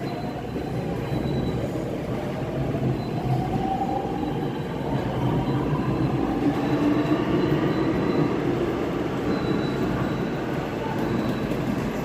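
Seoul Subway Line 5 train heard from inside the car while running between stations: a steady rumble of wheels on rail, with an electric whine from the motors that rises in pitch over the first few seconds as the train speeds up.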